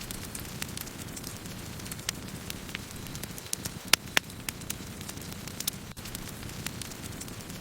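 Wood fire burning: a steady low roar of flames with irregular sharp crackles and pops of burning wood, one louder pop about four seconds in.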